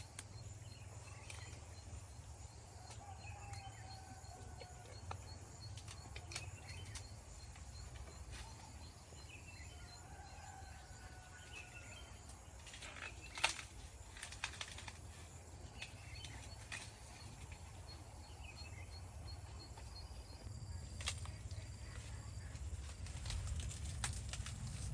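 Outdoor field ambience: a steady low rumble with faint bird calls now and then, and scattered clicks and snaps, the sharpest about halfway through.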